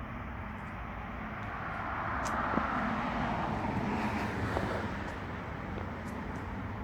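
A road vehicle passing, its noise swelling to a peak about three to four seconds in and then fading.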